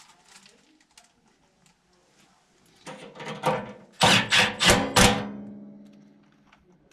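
A metal part being struck: a few lighter knocks, then four hard blows in quick succession that leave a metallic ringing dying away.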